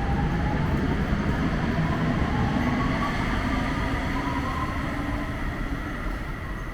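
O-Train light-rail train running past with a low rumble and an electric motor whine that rises in pitch, easing off a little near the end.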